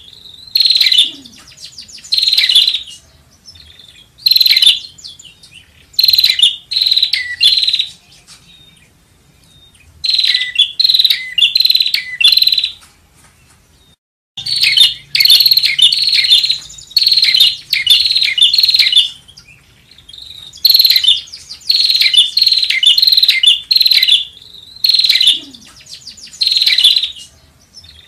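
Prinia (prenjak) calling: loud, repeated phrases of rapid, sharp chirping notes, each phrase lasting a second or two and separated by short pauses. The sound is a lure recording of the bird's call.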